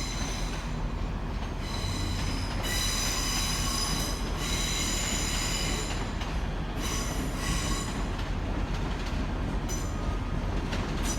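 A Class 385 electric multiple unit pulling out over a steady low rumble, with a high-pitched wheel squeal that comes and goes in several bouts.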